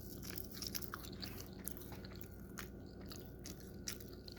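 Close-up mouth sounds of chewing food, a run of small, irregular wet clicks and crunches.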